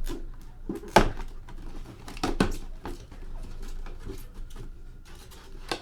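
Box and packaging being opened and handled by hand on a table: a run of sharp clicks and knocks, the loudest about a second in, two in quick succession a little past two seconds, and one more near the end.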